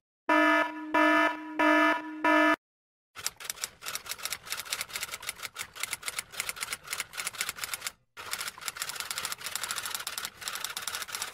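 Four short electronic beeps of one steady pitch, followed by rapid clattering typing clicks. The typing runs for about eight seconds with a brief pause partway through.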